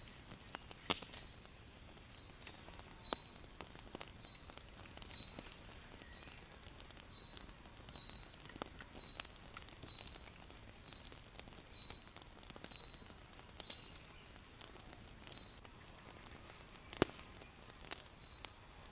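A bird calling a single short, high, slightly falling note about once a second, over and over, with scattered sharp clicks and snaps, two of them louder, about a second in and near the end.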